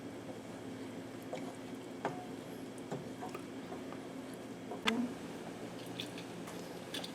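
A spoon stirring thick gravy in a pan, with wet squishing and a few scattered clicks of the spoon against the pan as the gravy comes up to a boil. A steady low hum runs underneath.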